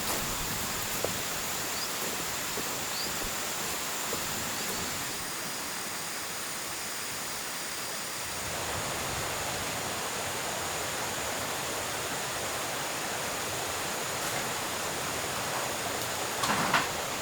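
Steady outdoor rushing noise, with a thin high steady tone over the first few seconds and a short sharp sound near the end.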